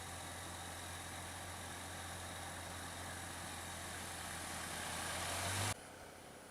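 A vehicle engine running steadily with a low hum, growing louder for a couple of seconds before cutting off abruptly near the end.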